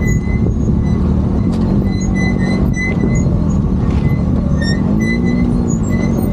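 Motorcycle engine running under load over rough ground, its revs rising and falling briefly about five seconds in, with a few knocks.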